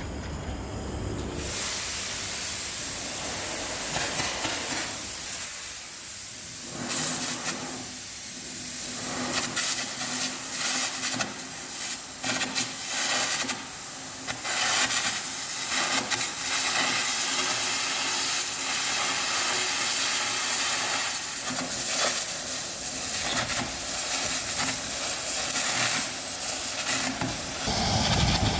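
Air carbon arc gouging on steel plate: a crackling arc under a hard rush of compressed-air hiss as the carbon rod blows out metal. It starts about a second and a half in and keeps going.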